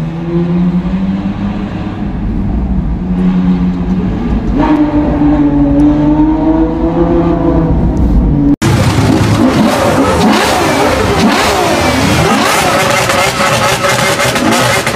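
Ferrari 812 Superfast's V12 heard from inside the cabin, pulling in a low gear, its pitch climbing about halfway through. An abrupt cut then brings several supercar engines revving hard over and over, with voices of onlookers.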